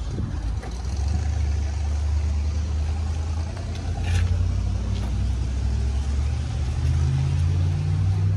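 A motor vehicle engine running at a steady, low-pitched idle.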